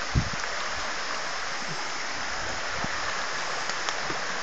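Steady rush of a flooded creek running high and fast, with a brief low bump just after the start.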